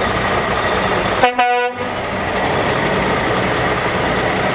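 A truck horn sounds once, a short single-pitched blast about a second in, over the steady running of heavy truck engines.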